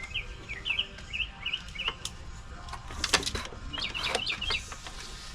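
A songbird singing phrases of quick, repeated wavering chirps, with scattered sharp clicks and knocks and a brief louder rattle about three seconds in.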